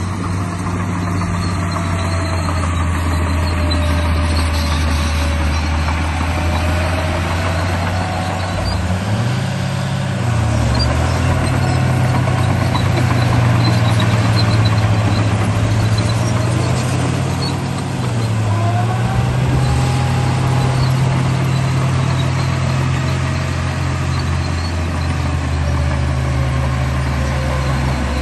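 Remote-control bulldozer running: a steady engine-like hum whose pitch steps up and down several times, with a fainter whine that glides up and down in pitch.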